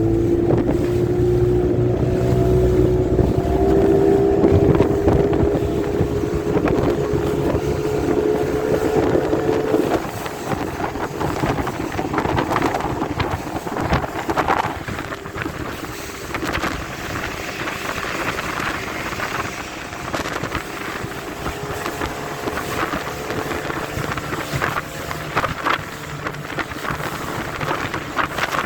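Outboard motor of a small motorboat running under way through storm waves, its note rising slowly. About a third of the way in the motor note drops back and gets quieter. Waves slap and splash against the hull, and wind buffets the microphone throughout.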